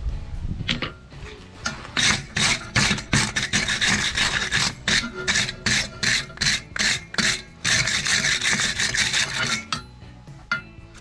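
Quick, even scraping strokes on steel stock, about two to three a second, starting about two seconds in and stopping shortly before the end, with fainter scraping around them.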